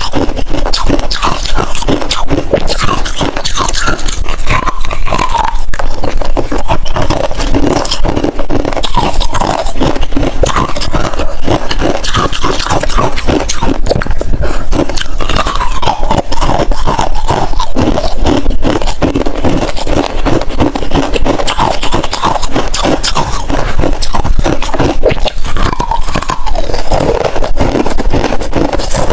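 Close-miked crunching and scraping of hard freezer ice and frost: a dense, unbroken run of crackles, with a few short squeaky scraping glides.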